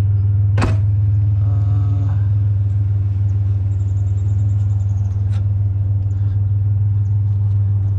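Truck engine running with a steady low hum, and one sharp click or knock about half a second in.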